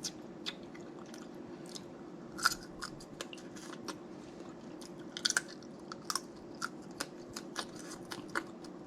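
Close-miked eating of snow crab legs: scattered short clicks and smacks of chewing, with the loudest clusters about two and a half and five seconds in. A steady low hum runs underneath.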